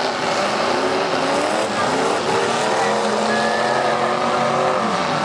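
Several demolition derby car engines running at once, their pitch rising and falling as they rev, with one engine holding a steady note for a couple of seconds midway.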